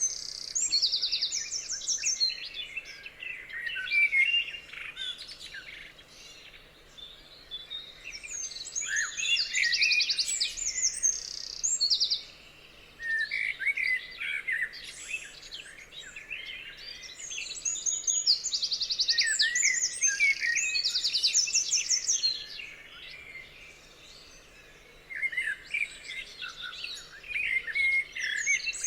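Songbirds singing: phrases of fast, high trills mixed with lower, varied chirps and whistles, broken by short pauses of a few seconds.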